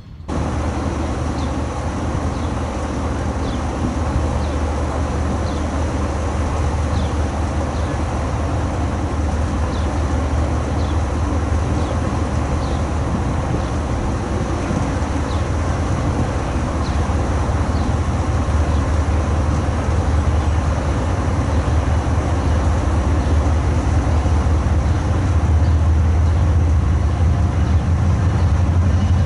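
Diesel freight locomotive running with a steady low drone, growing somewhat louder toward the end.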